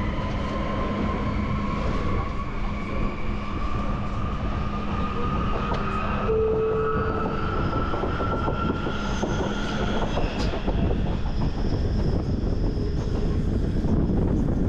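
Electric train running on the rails: a steady rumble under a whine that rises slowly in pitch for about ten seconds, with a brief higher tone about six seconds in.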